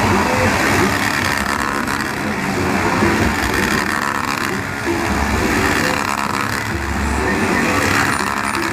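Car engines running steadily amid a noisy, continuous background.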